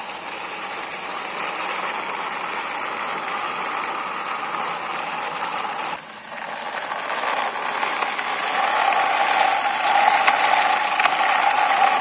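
A toy racing car pushed along by hand, its wheels rolling with a steady mechanical noise. It breaks off briefly about halfway and comes back louder, with a steady humming note in the last few seconds.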